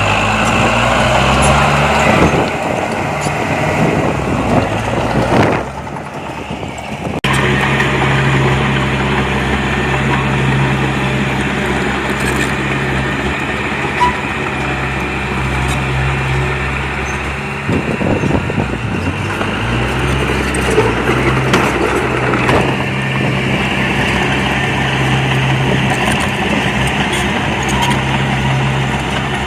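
Diesel engine of earthmoving machinery running steadily, with a few shifts in pitch and a brief quieter stretch about six seconds in.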